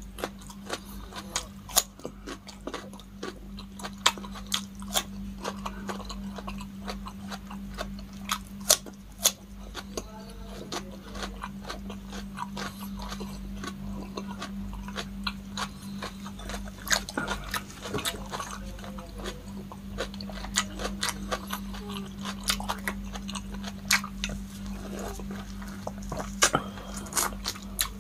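Close-miked eating: crunching bites of a raw cucumber stick and wet chewing, with many sharp mouth clicks and lip smacks, over a steady low hum.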